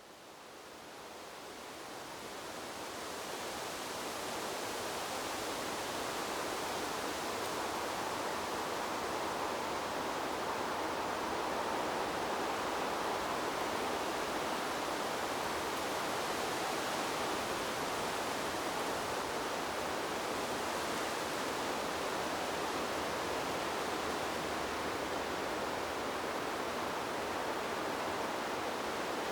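Wind blowing through a bamboo grove, a steady rustling hiss of leaves. It fades in over the first few seconds, then holds even.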